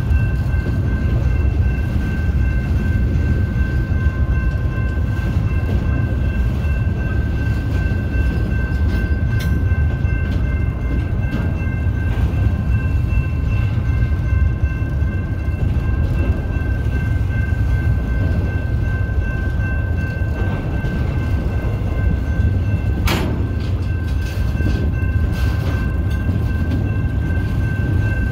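Intermodal freight train's cars rolling past on steel wheels: a loud, steady low rumble with a thin, high-pitched whine held over it. A single sharp clank about 23 seconds in.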